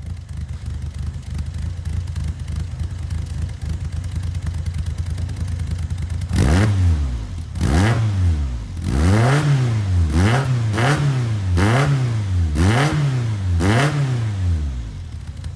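Toyota AE86's four-cylinder engine heard at the exhaust, idling steadily, then blipped through about seven quick revs from about six seconds in, each rising and falling back, before settling near the end.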